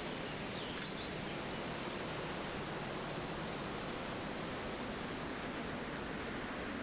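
Steady wind rushing through forest trees, with one faint, brief bird chirp about a second in.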